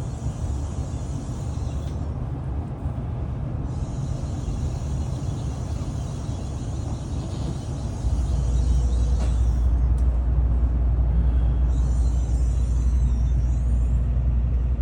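Tokaido Shinkansen train running: a steady rumble with a hiss above it, the rumble growing louder about eight seconds in, and faint high squeaks near the end.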